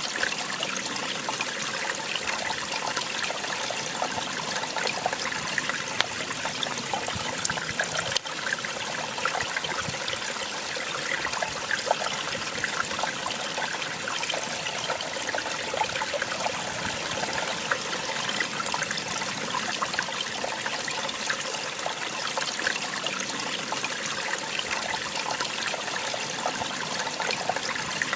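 Small waterfall splashing and trickling steadily, an even rush of falling water with a bright, splashy texture. A single brief click about eight seconds in.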